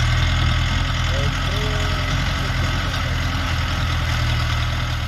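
A vehicle engine idling steadily at an even pitch.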